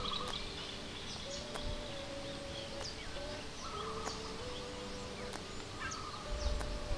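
Quiet outdoor ambience with birds chirping in short, high calls scattered throughout, over a slow line of long held low tones that step between a few pitches.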